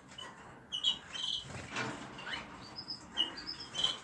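Small pet birds giving a series of short, high chirps, with a brief rustle near the middle.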